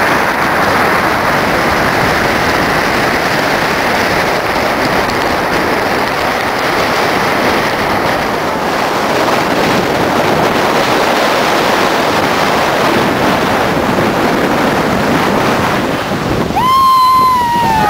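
Strong blizzard wind blowing over the microphone, with the surf of Lake Superior breaking: a steady, loud rushing noise. Near the end comes a brief whistling tone, about a second long, falling slightly in pitch.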